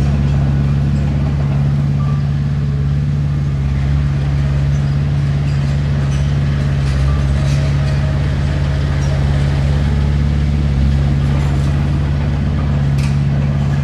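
Heavy diesel engine of earthmoving equipment running steadily at a constant speed, a loud, even low drone.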